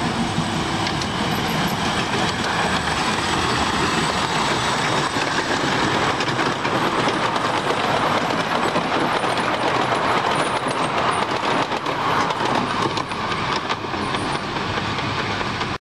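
Miniature railway train running along the track: a steady noise of wheels on rail and running gear that swells a little midway and stops abruptly at the end.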